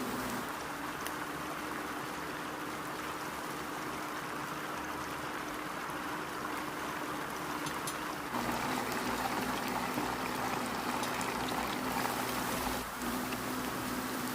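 Food frying in hot oil: a steady sizzle with scattered small crackles over a steady low hum.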